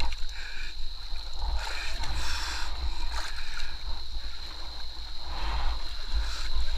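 Fast river water rushing and splashing, with a heavy low buffeting rumble on the microphone.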